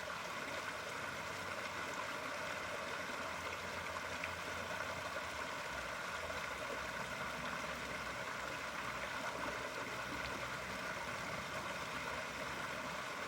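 Running water in a koi pond, a steady even rush without a break.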